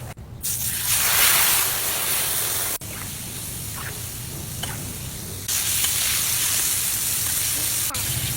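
Chicken frying in hot grease, a loud steady sizzle. The level jumps up or drops off abruptly a few times.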